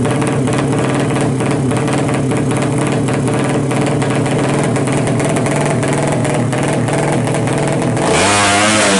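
200cc racing motorcycle engine running at a steady fast idle, its exhaust note choppy and breaking up. About eight seconds in it is blipped louder, and the pitch wavers up and down.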